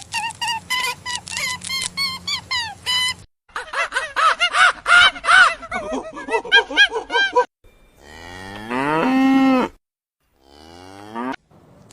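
Edited sequence of animal calls. It opens with about three seconds of quick, high repeated calls, then a chorus of many short calls overlapping. About eight seconds in comes one long, loud call rising in pitch, and a shorter call follows near the end.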